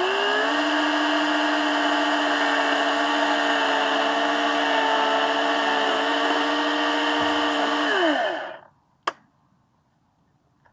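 Electric saw motor running at a steady speed, then switched off about eight seconds in, its pitch falling as it spins down to a stop, followed by a single sharp click.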